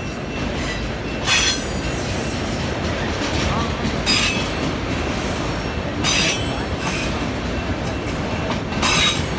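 Union Pacific mixed freight train's cars rolling past with a steady rumble, broken by a sharp clank from the wheels every two to three seconds, four in all.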